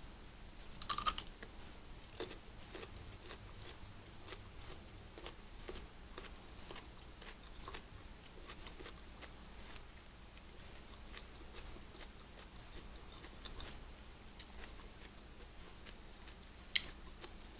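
A person chewing and biting a lobster roll: faint, irregular mouth clicks and smacks throughout, with a louder bite about a second in and another near the end.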